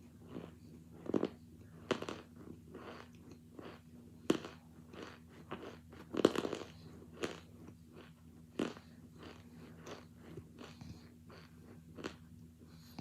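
Mouth crunching and chewing hard chunks of boiled, frozen cornstarch mixed with baby powder. Irregular sharp crunches come about once a second, the loudest about six seconds in.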